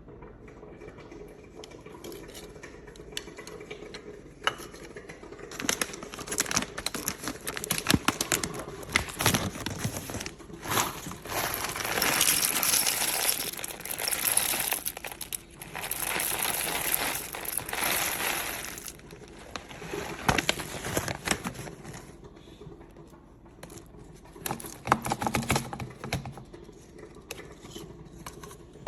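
Packaging being handled: irregular crinkling and rustling with scattered clicks and knocks, loudest for several seconds in the middle.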